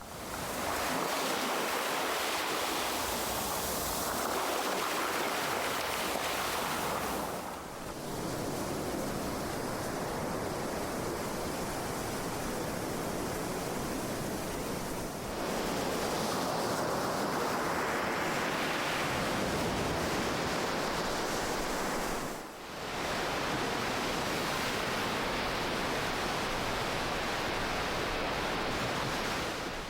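Ocean surf: a steady rush of waves washing in, swelling and easing, with brief dips in level about every seven or eight seconds.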